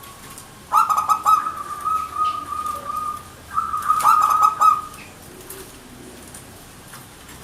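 Zebra dove cooing in two phrases, each opening with a quick stutter of notes and running into a held coo; the second phrase is shorter.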